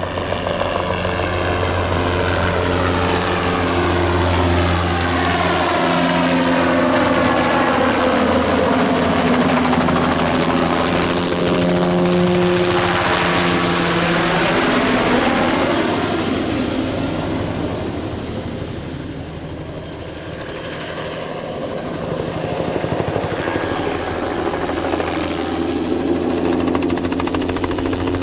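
Single-turbine crop-dusting helicopter flying low past, with rotor thump and a steady high turbine whine. Its pitch drops as it passes about halfway through. It then fades a little and grows louder again toward the end.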